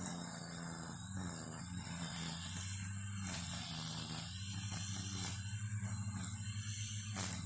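String trimmer running: a steady motor hum with a hiss of line whipping through weeds above it, pulsing a little in loudness in the second half.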